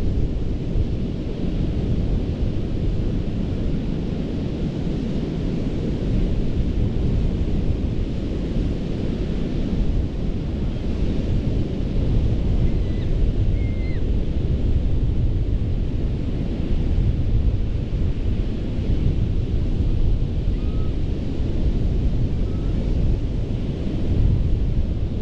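Ocean surf washing onto a sandy beach in a continuous, gently swelling roar, with heavy wind rumble on the microphone. A few faint, short high chirps come through partway in.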